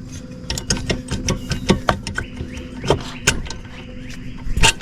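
Irregular metal clicks and knocks of hands and tools working at a stuck part on a disassembled small two-stroke engine's piston, with one louder knock near the end, over a steady low hum.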